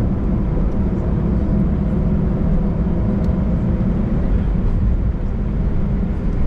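Airliner's jet engines heard from inside the cabin: a steady, loud, low rumble with faint scattered ticks.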